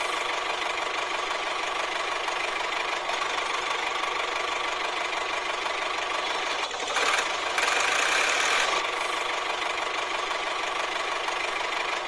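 Small motor of a DIY mini tractor running steadily with a buzzing whir, getting louder for a couple of seconds about seven seconds in.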